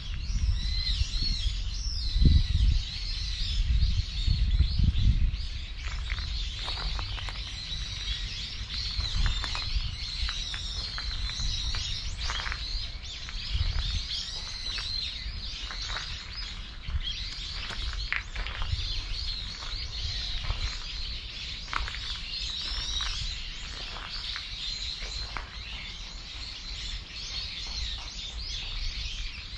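Many small birds chirping and twittering without pause, with short high calls overlapping one another. A few low thumps sound in the first five seconds.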